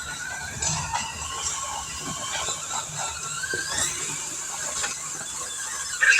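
RC pulling truck's electric motor and geared drivetrain whining under load, the pitch rising and falling, with gear clicking. A short, louder squeal comes near the end as the drivetrain gives out; a gear turns out to be broken.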